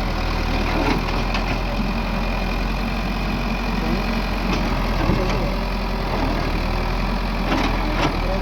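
Backhoe loader's diesel engine running steadily, with a few sharp knocks about halfway through and again near the end.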